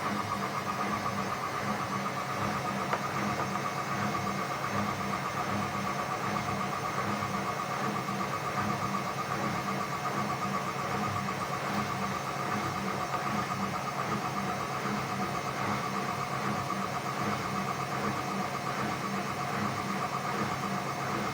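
Indesit WISN 101 front-loading washing machine running steadily during its rinse cycle: an even motor hum with a fast, regular pulsing.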